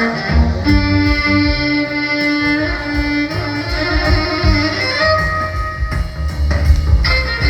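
Live band playing an instrumental passage of a slow jazz ballad, a violin's held notes over bass and guitar.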